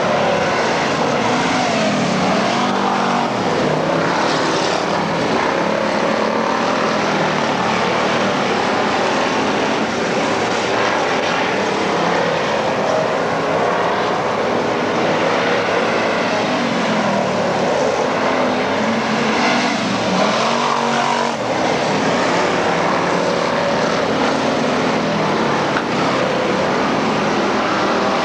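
Several race car engines running hard on a dirt oval, a continuous mass of engine noise whose pitch swoops up and down as cars go by, most clearly about three seconds in and around twenty seconds in.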